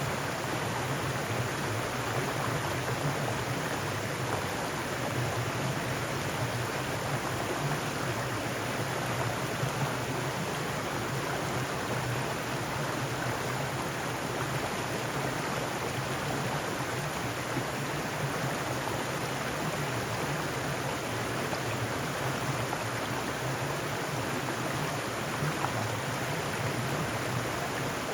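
Mountain stream rushing over rocks, a steady unbroken water sound.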